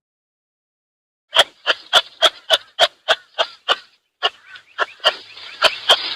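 An animal giving a rapid series of short, sharp calls, about three to four a second, starting after a second or so of silence, with a brief break before the calls resume less evenly near the end.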